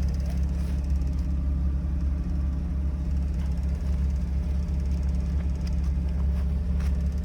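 Mazda RX-7's twin-turbo rotary engine idling steadily as it warms up, with a few faint clicks from handling.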